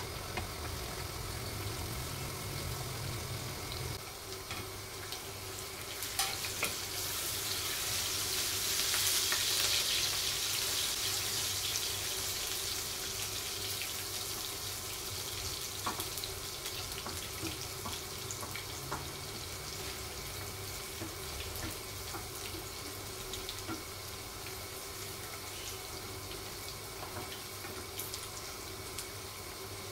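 Tadka of ginger and chillies frying in desi ghee in a pan, a steady sizzle that swells loudest about a third of the way in, with scattered light clicks of a spatula stirring against the pan.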